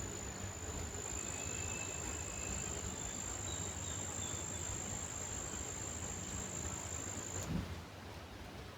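A cricket trilling on one steady high note that cuts off abruptly about seven and a half seconds in. A few faint bird chirps come in between about one and four seconds in.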